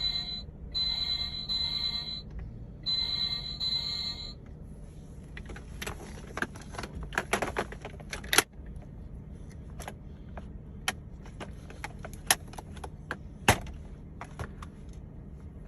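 Battery-powered toy fire truck's electronic siren, a steady electronic tone sounding in three blasts with short breaks, stopping about four seconds in. Then sharp plastic clicks and rattles of the toy being handled.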